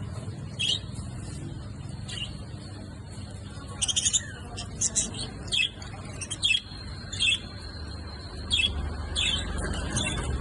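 Small birds chirping: short, sharp calls come irregularly, a dozen or so, thickest in the middle, over a steady low background rumble.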